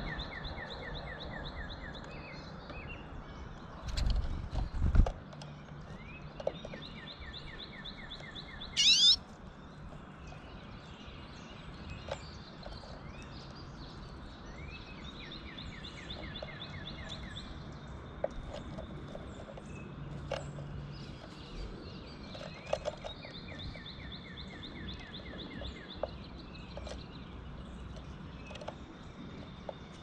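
Wild songbirds singing: several trills of about two seconds each, made of fast, evenly spaced short notes, and one loud, sharp rising note about nine seconds in. A few low thumps come around four to five seconds in.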